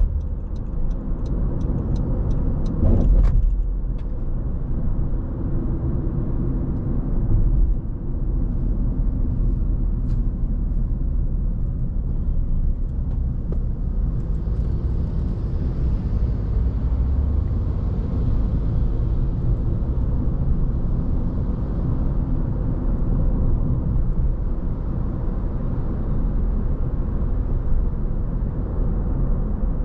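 Car driving, with a steady low rumble of road and engine noise. A fast, even ticking runs through the first three seconds, and a short thump comes about three seconds in.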